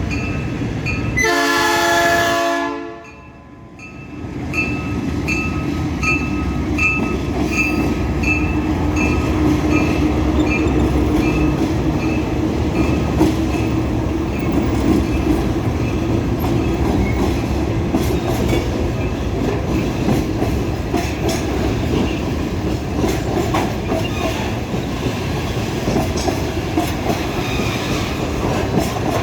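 Three GE U20C diesel-electric locomotives hauling a loaded magnesite freight train: a horn blast lasting about a second and a half, starting about a second in, then the engines running and the wagons rolling with a steady rumble and regular clicking.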